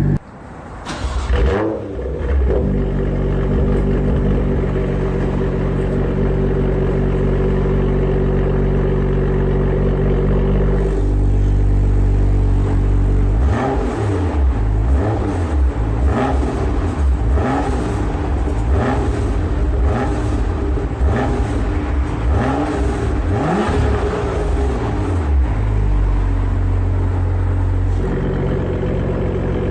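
BMW M2's turbocharged straight-six exhaust: a short flare about a second in, then a steady idle. From about halfway the engine is revved in a run of about ten quick throttle blips, each rising and falling, then settles back to idle.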